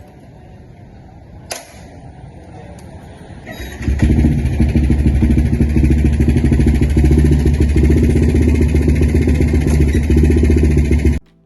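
A motorcycle engine starts about four seconds in, after a sharp click and a short rising build-up, then runs loudly with a fast, even pulse. It cuts off abruptly near the end.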